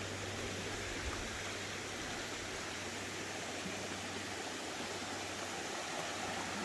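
Creek water running steadily, a constant even rush.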